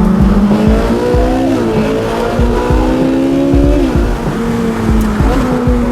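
Supercar engine accelerating hard. Its pitch climbs and drops sharply at two upshifts, about one and a half and four seconds in, over a steady engine drone.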